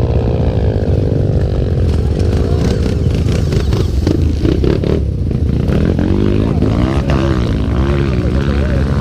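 Trail motorcycle engine running steadily, then revved up and down repeatedly in the last few seconds as the rider works the throttle on a climb.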